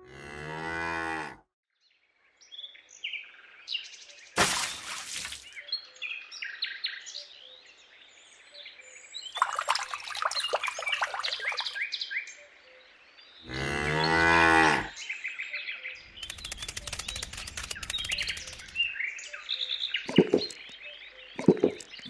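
Cows mooing: two long, low moos, one at the start and one about two-thirds of the way through, with birds chirping in between.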